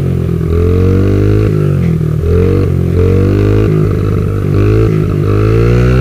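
Motorcycle engine running and being revved, its pitch climbing and dropping back several times, with a rougher, choppier stretch about four seconds in.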